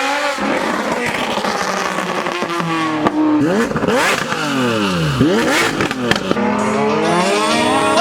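Sports car engine revving hard through the exhaust, its note climbing and falling several times. Near the middle the pitch sweeps down steeply, as when a car passes at speed.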